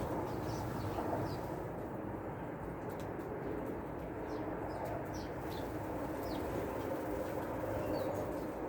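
Small songbirds giving short, high chirps, scattered a few times a second at irregular intervals, over a steady low background rumble.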